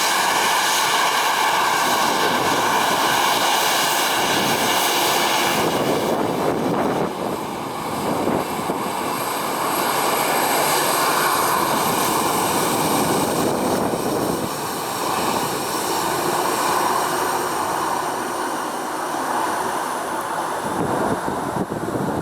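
Boeing 737-800's CFM56 turbofan jet engines running with a steady whine over a broad rush of engine noise; the whining tones fade about six seconds in, and a faint high tone slowly rises later on.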